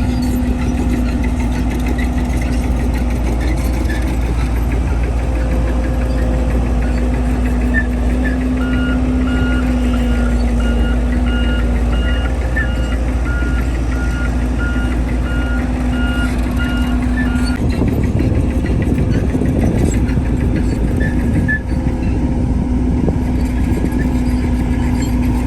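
Heavy diesel earthmoving machinery running steadily at a landfill. A reversing alarm beeps at an even pace for about nine seconds through the middle. Near the end the engine sound turns rougher and louder for a few seconds as the machine works harder.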